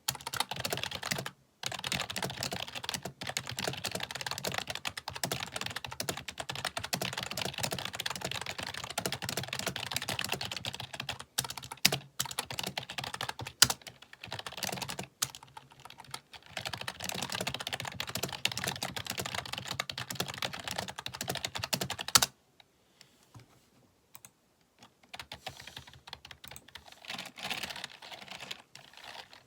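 Fast typing on a computer keyboard: a dense, continuous clatter of key clicks with a few brief pauses. It stops abruptly about two-thirds of the way through, then resumes more softly and sparsely near the end.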